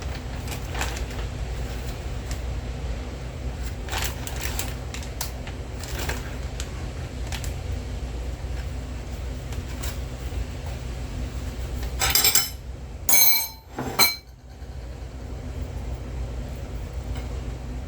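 Kitchen handling noises: scattered light clinks and knocks of dishes and utensils, with a short run of louder clattering about twelve to fourteen seconds in, over a steady low hum.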